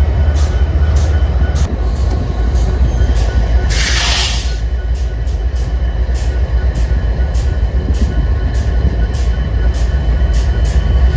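A train running with a steady, heavy low rumble, and a short burst of hiss about four seconds in.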